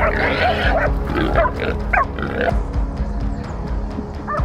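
Feral hog squealing, several short high squeals in quick succession and one more near the end, over background music.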